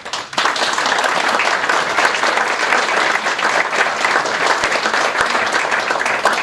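An audience applauding. The clapping starts suddenly and stays steady and dense throughout, then fades away quickly at the end.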